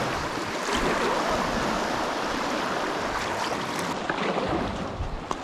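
Shallow river current rushing steadily around a packraft, easing slightly near the end, with a few faint taps.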